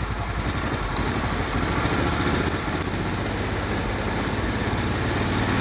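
Case yard tractor's 10 hp Kohler single-cylinder engine running steadily in gear with the clutch let out, while the drive fails to move the tractor, which the owner takes for belt slippage.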